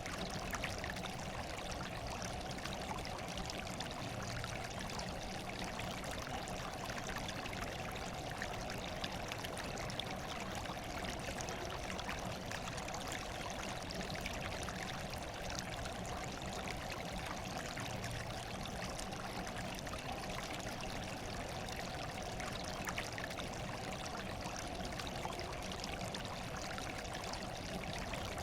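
Running water, steady and unbroken: an even trickling hiss.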